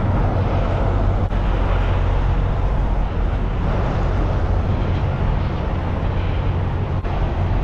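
Steady low engine drone over a haze of outdoor noise, from a heavy vehicle running nearby.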